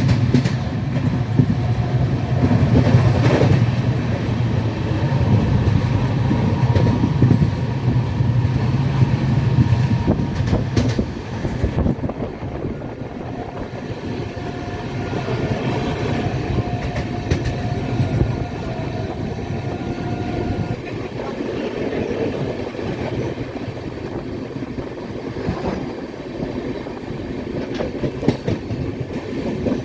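Passenger train running along the track: wheels clattering and rumbling over the rails, the heavy low rumble easing off about eleven seconds in.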